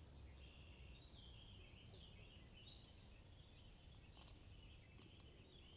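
Faint birdsong: quick chirping, warbling phrases from a bird, over low outdoor background noise, with a couple of faint clicks.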